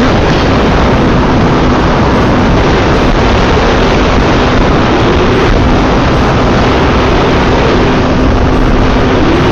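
Loud, steady rush of wind and road noise from riding a Yamaha FZ V3 motorcycle at highway speed, with the engine's faint even hum underneath.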